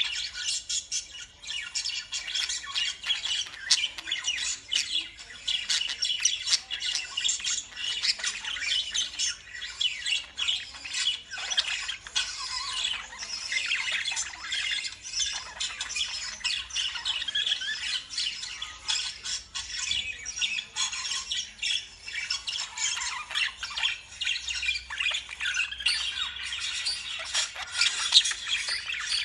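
Lovebirds chattering: a continuous, dense mix of shrill squawks and chirps.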